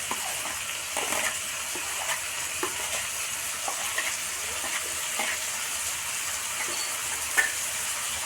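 Prawns and onions frying in mustard oil in a pan, a steady sizzle, with scattered light scrapes and taps of a spoon as mustard paste is spooned on.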